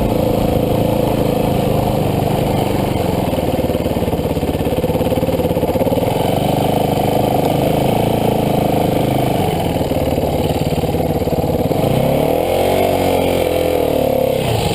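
Dirt bike engine running steadily, then revving up and back down once near the end.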